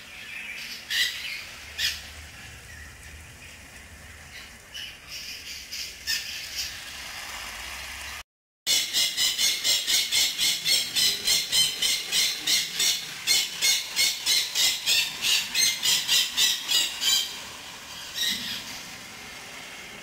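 A bird calling: a few scattered sharp chirps at first, then a long run of loud, evenly repeated high chirps at about four a second that stops a few seconds before the end.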